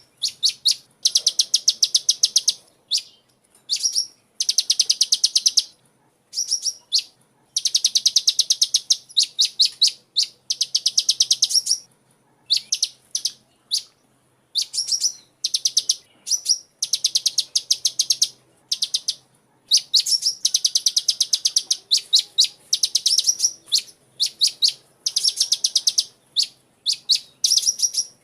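Sunbird singing: rapid, high-pitched chirps strung into fast trills, in bursts of one to two seconds with short pauses between, over and over.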